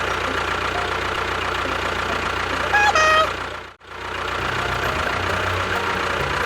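Steady engine-like running of a miniature DIY construction vehicle, with a short two-note horn about three seconds in. The sound cuts out for a moment just after the horn, then the running resumes.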